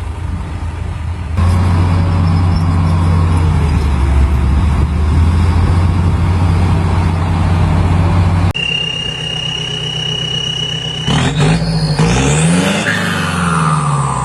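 Heavy construction machine's diesel engine running at a steady low drone, which cuts off abruptly after about eight seconds. It gives way to a steady high whine and then whistling tones that glide up and down.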